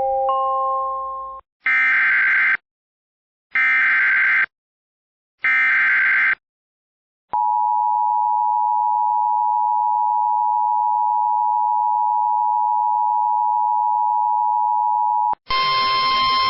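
Emergency weather-alert broadcast header: chime tones ring out and fade, then three short bursts of screeching SAME digital data tones about two seconds apart, then the steady two-tone attention signal held for about eight seconds and cut off. A harsh buzzing tone starts near the end.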